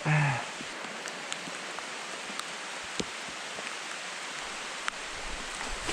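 Steady rain falling, an even hiss with a few sharp ticks of single drops striking close by.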